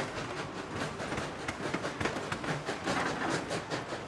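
Tweetsie Railroad narrow-gauge train rolling along the track behind steam locomotive No. 190, with a quick, uneven run of clicks and rattles from the wheels and cars. A brighter hiss swells near the end.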